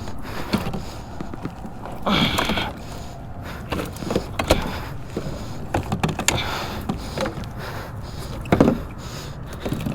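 Scattered knocks and clicks of gear being handled aboard a fishing kayak, with a louder rush of noise about two seconds in.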